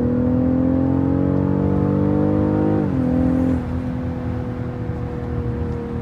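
BMW X6's engine accelerating, its note climbing steadily, then dropping sharply at an upshift about three seconds in. Soon after, it settles to a steadier, quieter drone as the throttle eases.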